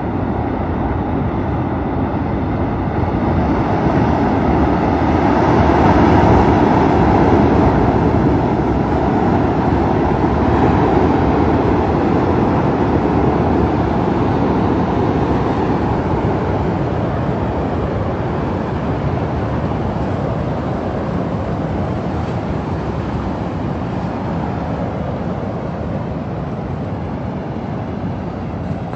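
Loud, steady rush of floodwater from a swollen mountain torrent, swelling a few seconds in and easing slowly toward the end.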